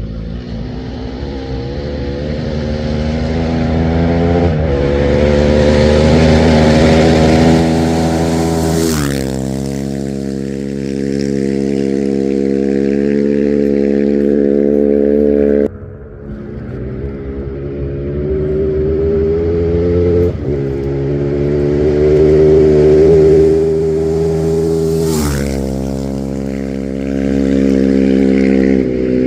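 Two rally-raid competition vehicles approach one after the other at full throttle and pass close by, each engine rising in pitch as it nears and dropping sharply as it goes past. There is an abrupt cut between the two passes.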